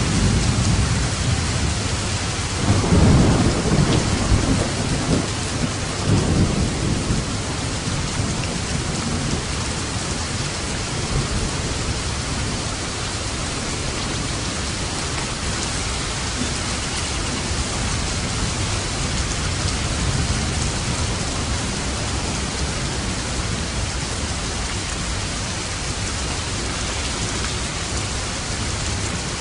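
Steady heavy rain with a thunder rumble that swells about three seconds in and rolls on for a few seconds, then fades back into the rain.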